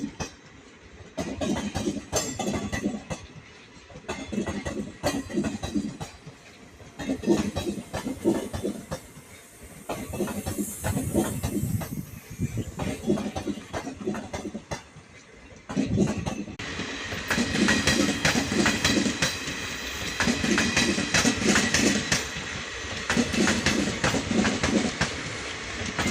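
Train wheels running over rail joints in a regular clickety-clack. About two-thirds of the way in, the sound grows louder and fuller, with a rattling hiss added on top.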